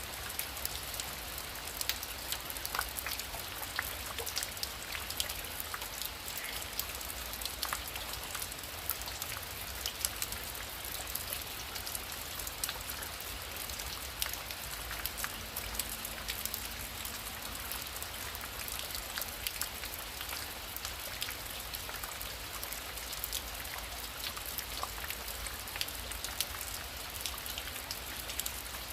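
Heavy rain falling steadily: an even hiss of rain with many separate drops ticking on a surface.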